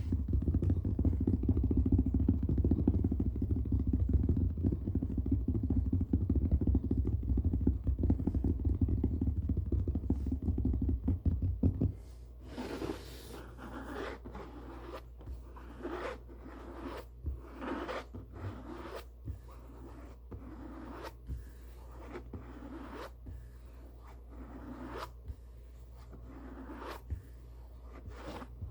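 A book handled close to the microphone: a loud, dense, low rubbing for about the first twelve seconds, then a run of short papery swishes, roughly one a second, as pages are turned.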